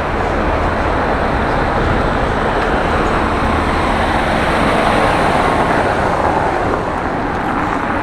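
Street traffic: cars passing by in a steady wash of engine and tyre noise, swelling a little as a vehicle goes past about halfway through.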